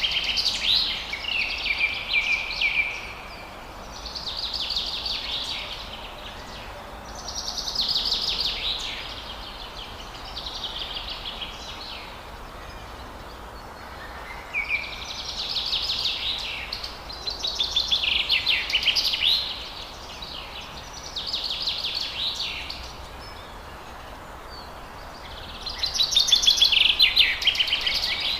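A songbird singing short phrases of rapid high notes, each one to two seconds long, repeated every two to three seconds over a steady faint background hiss.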